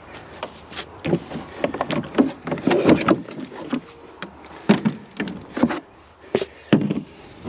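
An irregular series of knocks and clunks, as of hard objects being handled and set down, with a few louder thuds about halfway through and again toward the end.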